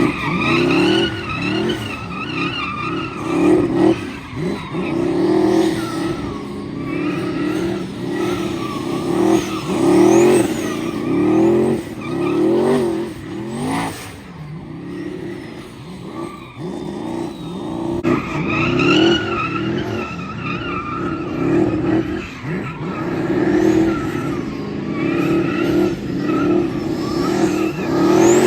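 V8 race car revving hard up and down again and again during burnouts and doughnuts, with the tyres squealing. The squeal drops away for a few seconds in the middle of the run.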